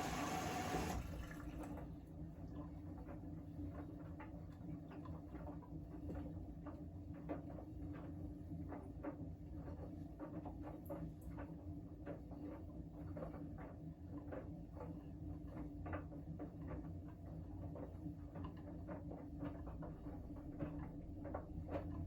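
Siemens WM14T490 front-loading washing machine, which has a damaged drum bearing, in its wash phase: a rushing water-inlet hiss cuts off about a second in, then the drum turns with a steady motor hum while the wet laundry and water splash and patter irregularly inside.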